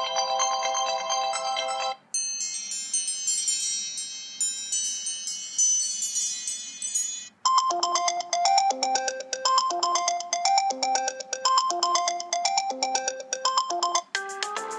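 iPhone iOS 7 default ringtones played one after another. One tone ends about two seconds in, a bright, high chiming ringtone follows, then from about halfway a ringtone repeating a short phrase of notes about once a second, and another begins near the end.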